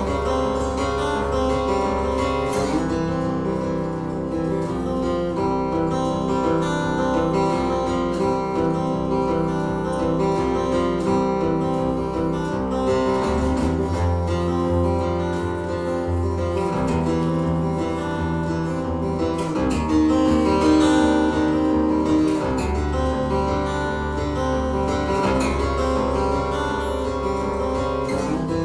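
Acoustic guitar played live: an instrumental passage of picked and strummed notes over a low bass line that shifts every few seconds.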